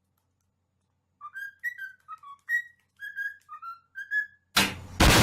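A bird, likely a pet parrot, whistling a short tune of about a dozen quick notes, each note with bright overtones. Near the end a sudden loud burst of noise cuts in.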